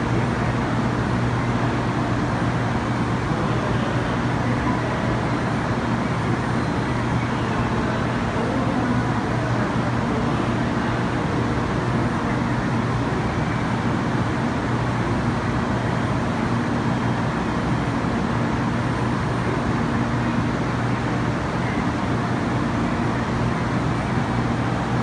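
Steady platform ambience of a Shinkansen train standing at the station: a constant low hum under an even wash of noise, with no change in pitch or level.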